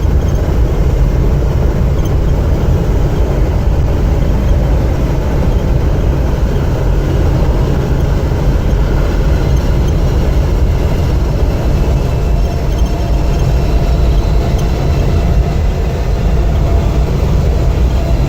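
Steady loud low rumble of travel at speed while racing alongside a train.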